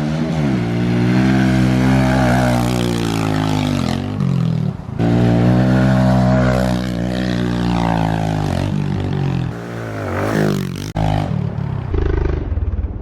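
Kawasaki KLX110 pit bike's small single-cylinder four-stroke engine revving up and down as the bike is ridden over a trials route, with its revs dropping off sharply twice.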